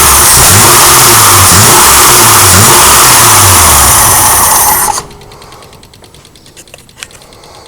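BMW E9 3.0 CS's M30B35 3.5-litre straight-six engine revving up and down in repeated blips, very loud. The sound cuts off sharply about five seconds in, leaving only a faint click.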